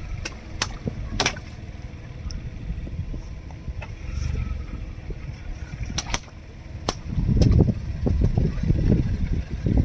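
A car's tyres rolling over and crushing objects: a few sharp cracks and pops, then from about seven seconds in a louder, dense crunching rumble.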